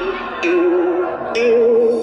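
Music played loud through a large parade sound system during a sound check: a melody of long held notes with a wide vibrato, changing pitch about every half second to second, with little deep bass.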